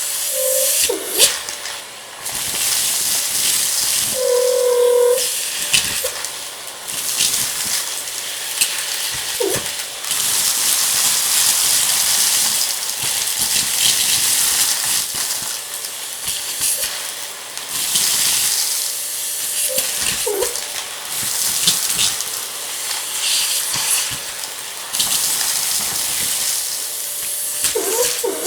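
Vacuum cleaner running over a rug and sucking up crunchy debris: a steady rush of air with frequent sharp clicks and crackles as the bits are pulled in, over a faint steady motor whine.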